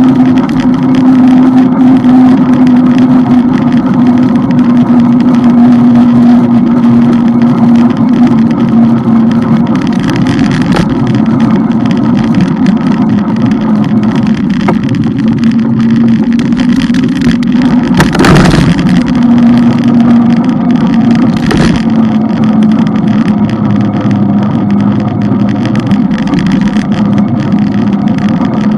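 Motorbike engine running at a steady cruising speed with a constant drone, under heavy wind noise. A brief loud rush of noise about two-thirds of the way through.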